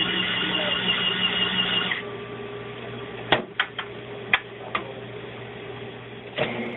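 Disc scratch-repair machine's motor running with a steady whine, stopping about two seconds in; a few sharp clicks follow, and the motor starts up again near the end.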